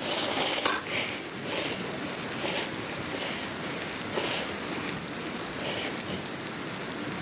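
Sauced yakisoba sizzling on a hot iron griddle, a steady frying hiss with brief louder hisses now and then.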